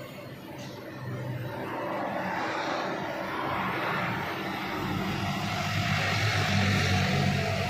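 Motorcycle engine running with a low drone and a rushing noise, growing louder from about a second in toward the end.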